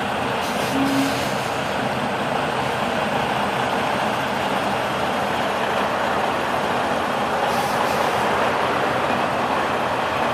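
Semi-truck's diesel engine running steadily as the loaded tractor-trailer reverses slowly, with two short hisses, about a second in and again near eight seconds.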